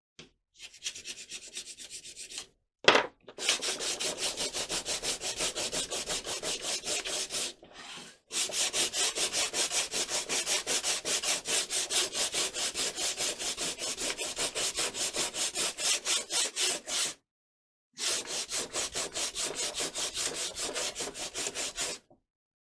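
Hand sanding with sandpaper: rapid back-and-forth rubbing strokes, about three to four a second, in runs with short pauses between them. A single sharp knock about three seconds in.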